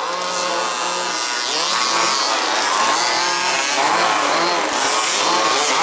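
Several 1/5th scale RC buggies' two-stroke petrol engines racing together, their pitches rising and falling over one another as the cars accelerate and back off around the track.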